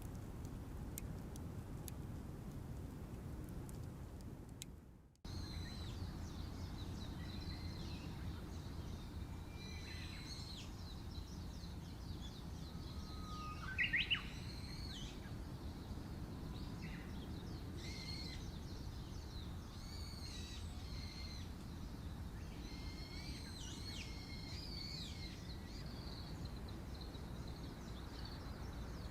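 Wild birds singing and calling: short chirps and trills over a steady low outdoor rumble, with one louder rising call about halfway through. Before that, a few faint ticks, then the sound fades out about five seconds in and the birdsong starts.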